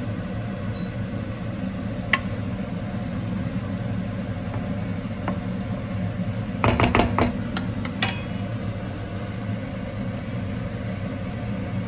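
A steady low machine hum, with a sharp click about two seconds in and a short cluster of clicks and clatter about seven seconds in.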